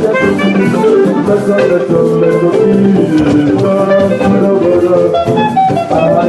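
Live church band music playing an instrumental passage between sung lines of a choir anthem, with guitar and drums.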